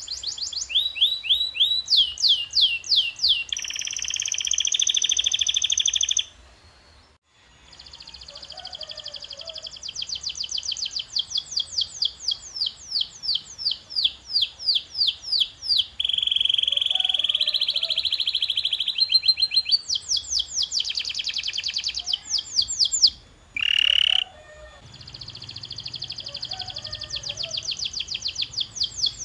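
Domestic canary singing: a long song of rapid tours of repeated sweeping notes and buzzing rolls, changing from one tour to the next, with brief pauses about seven seconds in and near twenty-four seconds.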